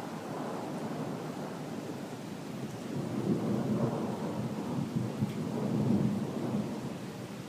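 Rolling thunder: a long, low rumble that builds over the first few seconds, surges loudest through the middle and dies away near the end, with heavy rain hissing steadily beneath it.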